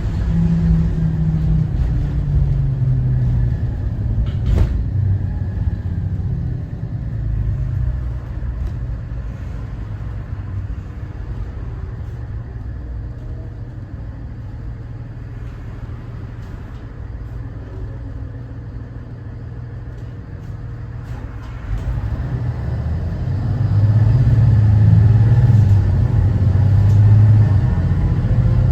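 Cummins ISB 6.7 inline-six diesel of a 2014 Thomas Saf-T-Liner C2 school bus running as the bus drives, a low rumble that eases off through the middle and grows louder again in the last several seconds as the engine pulls harder. A single sharp click sounds about four and a half seconds in.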